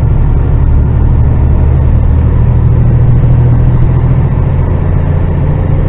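HGV lorry's diesel engine running, a loud, steady low drone.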